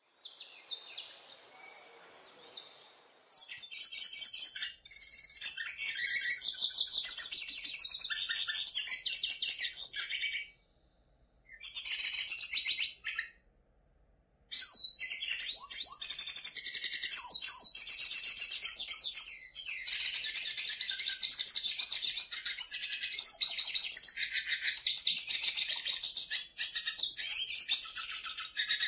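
A songbird singing a long, fast, high-pitched song of rapid chirps and trills, broken twice by brief silences.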